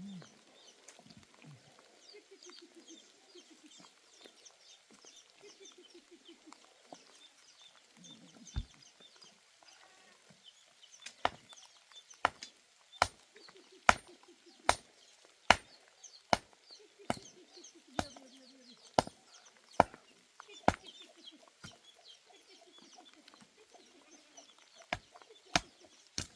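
Chickens clucking, and from about halfway through, a steady run of sharp knocks a little more than once a second, pausing briefly near the end.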